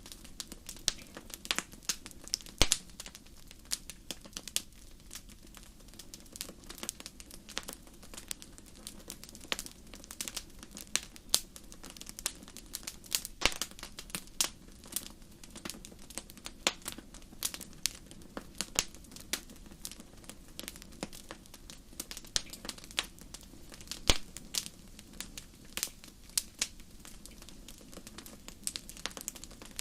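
Wood fire crackling, with irregular sharp pops and snaps over a low steady roar of the flames.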